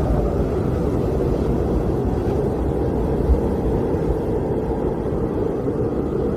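Blizzard wind blowing steadily, a deep rushing noise with a low rumble underneath.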